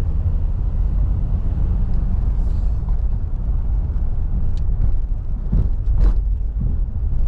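Car driving, heard from inside the cabin: a steady low rumble of engine and road noise, with a few short knocks and rattles between about four and six seconds in.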